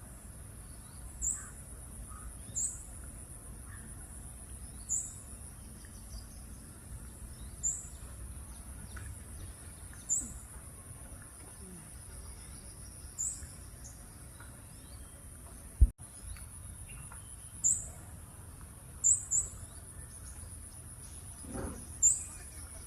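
Outdoor wildlife ambience: a steady, high-pitched insect buzz with short, high chirps repeating every two to three seconds, and one sharp click about sixteen seconds in.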